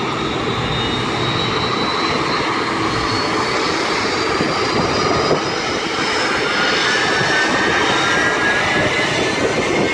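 Airliner's jet engines running: a steady loud rush of engine noise with high whining tones that drift slightly in pitch in the second half.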